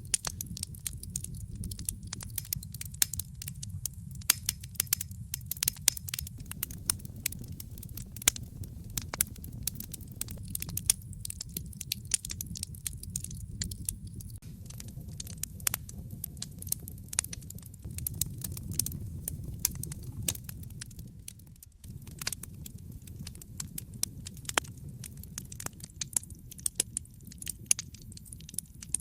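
Wood fire crackling, with frequent irregular sharp pops and snaps over a steady low rumble of burning flames.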